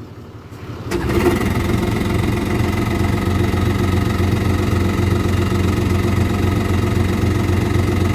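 Yamaha Wave Raider 1100 jet ski's three-cylinder two-stroke engine catching about a second in, then running steadily at idle. This is the hard-starting ski firing up with its fuel petcock switched to reserve.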